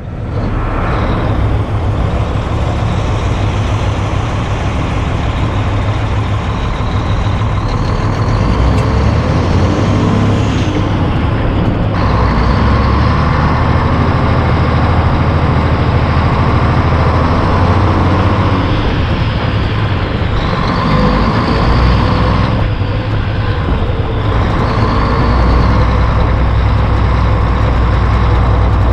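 Heavy diesel truck engine running under load on the road with a steady low rumble, its pitch changing several times as it shifts through the gears.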